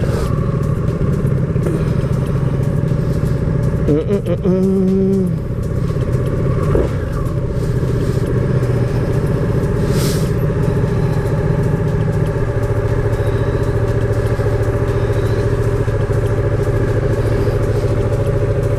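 Sport motorcycle engine running steadily at low speed, heard from on the bike. There is a single short sharp noise about ten seconds in, and the engine settles to a more even, slightly quieter note in the second half.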